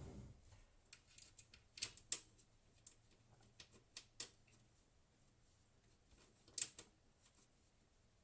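Scattered sharp clicks and light taps at irregular intervals, with a soft low thump at the start.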